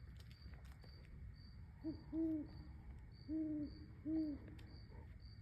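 Owl hooting: four low hoots, a short one and then a longer one about two seconds in, followed by two more about a second apart. Under them a steady series of short, high-pitched chirps repeats about twice a second.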